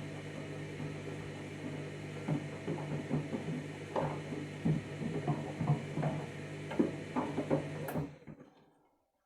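Candy washing machine running mid-cycle: a steady motor hum with irregular knocks and clicks from the drum's contents, and the whole sound cuts off abruptly about eight seconds in.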